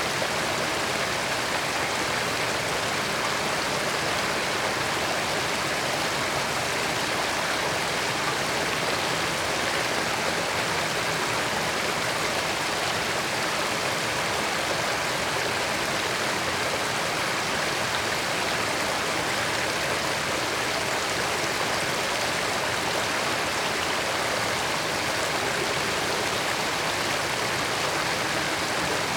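Creek water running over rocks in a steady, even rush with no breaks.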